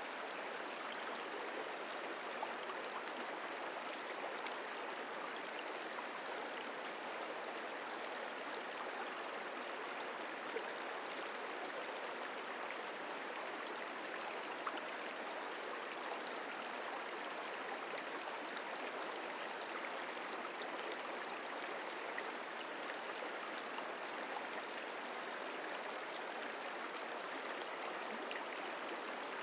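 Merced River flowing, a steady even rush of water, with a few faint ticks over it.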